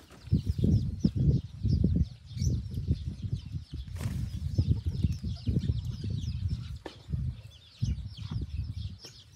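Many short, high bird chirps throughout, over loud low rumbling buffets; no crowing.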